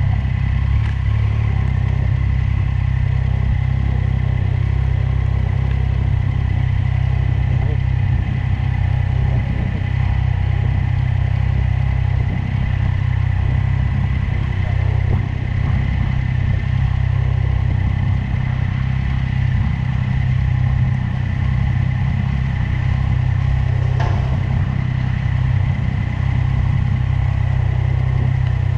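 Motorcycle engine running at a steady, even speed, a loud low rumble with a faint steady whine above it.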